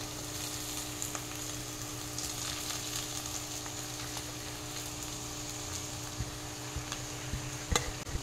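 Chopped onion, carrot and capsicum frying in oil in a steel kadhai on a low flame: a soft, steady sizzle as washed poha is tipped in. A few light clicks of a steel spatula on the plate come near the end.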